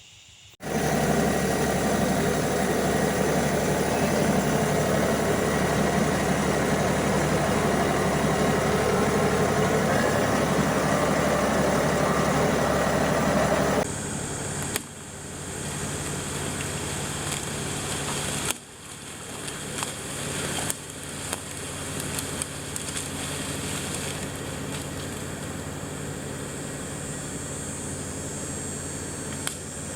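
Compact diesel tractor engine running steadily. It drops abruptly quieter about 14 seconds in and again about 18 seconds in, then carries on at the lower level.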